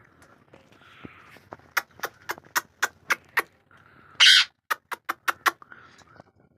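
Rose-ringed parakeet's beak biting and crunching into guava: a run of sharp clicks about three a second, then a short loud harsh burst near the middle, then a few more clicks.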